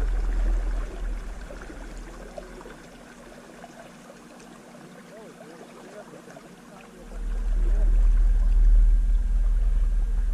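Canoe under way: water washing along the hull, with a faint steady hum from its small motor running flat out. Wind rumbles on the microphone at the start, dies away for several seconds, and comes back strongly about seven seconds in.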